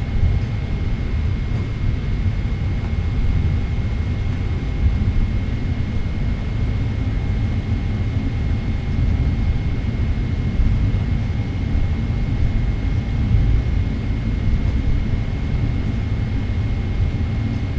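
Boeing 777-300ER cabin noise while taxiing: a steady low rumble from its GE90 engines with a thin, steady high whine over it.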